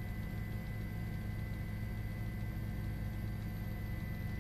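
Steady low hum with a faint even hiss and a few constant high tones, unchanging throughout.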